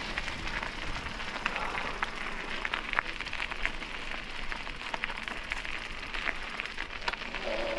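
Bicycle riding noise: tyres rolling over a rough path, with many small clicks and rattles.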